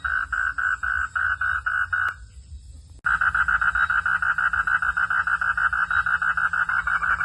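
Frog calling in a fast, even train of pulses, about six a second. It stops about two seconds in, and a second later resumes suddenly and keeps going.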